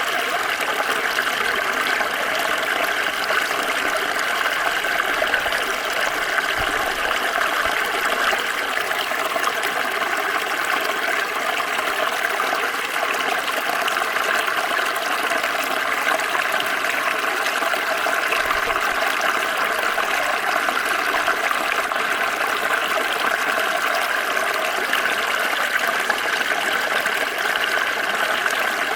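Small stream flowing steadily over stones, a continuous even babble and rush of water.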